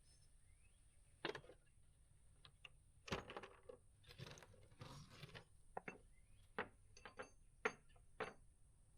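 Faint clinks and rattles of small metal hardware being handled, with scattered sharp clicks and a longer rattling stretch about three seconds in.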